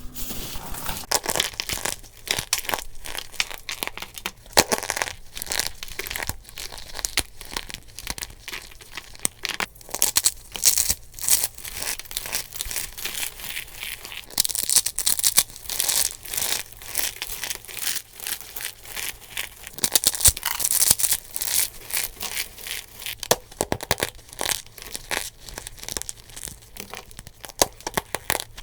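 Dry, brittle soap crackling and crumbling as it is crushed: a dense, irregular run of small crunches and crackles, with louder stretches every few seconds.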